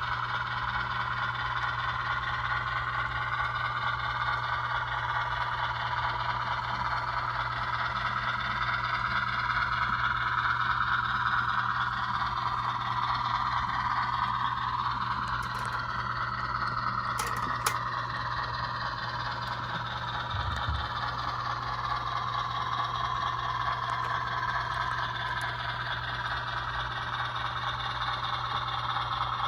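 HO scale model 44-tonner locomotive switching cars: a steady mechanical drone with the rattle and scrape of small wheels running on the track. A short sharp click comes about 17 seconds in.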